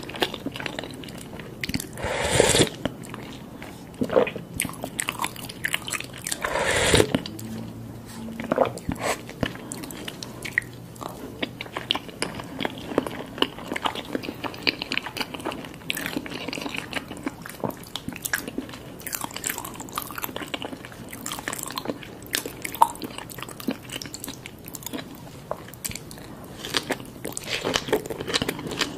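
Close-miked eating: chewing and biting with many small wet mouth clicks, as soft-boiled eggs and vegetables in spicy soup are eaten. Two louder mouthfuls stand out, about two and a half and seven seconds in.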